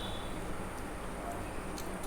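Soft clicking and smacking sounds of someone eating, a few faint clicks near the end, over a steady low background hum.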